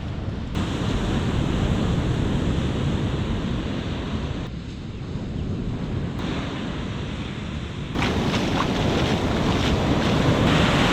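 Ocean surf washing, with wind buffeting the microphone. The noise shifts suddenly in level a few times and is loudest in the last few seconds.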